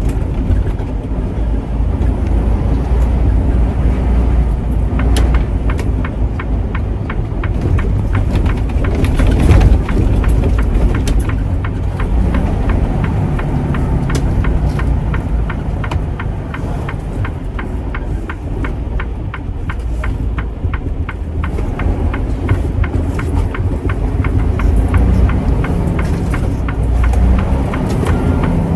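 A truck driving on the road, with a steady low engine and road rumble. From about five seconds in, a fast, regular run of sharp ticks rides over it.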